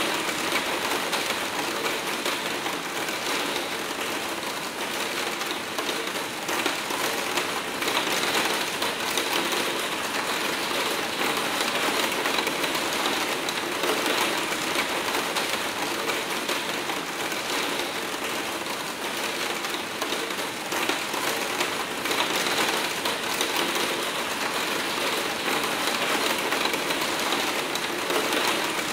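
Hard rain pattering on a roof skylight's pane: a dense, steady patter of drops on the glazing, swelling and easing slightly.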